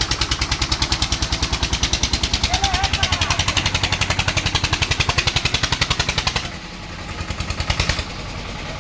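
Eicher 241 tractor's single-cylinder diesel running hard under load with a fast, steady thump of about ten beats a second. It drops off suddenly about six and a half seconds in, builds back up, then eases at about eight seconds. It is labouring to haul a loaded brick trolley uphill on wet ground.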